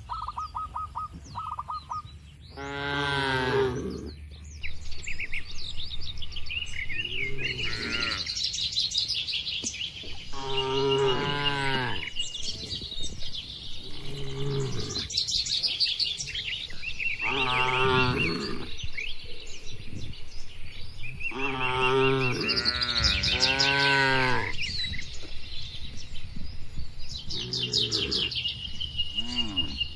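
Cattle mooing again and again, a call every few seconds, with small birds chirping between and over the calls.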